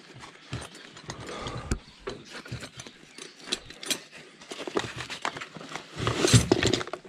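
Metal hand tools clinking and clattering, as when spanners or sockets are sorted: irregular clicks and knocks, with a louder clatter about six seconds in.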